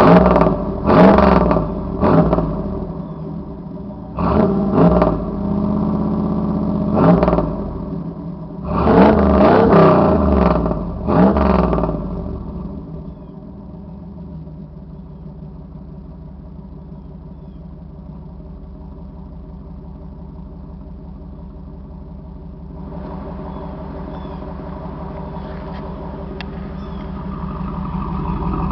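1993 Camaro Z28's LT1 V8 through a cat-delete exhaust, blipped in a series of sharp revs, a couple of them held briefly, then settling to a steady idle for the second half.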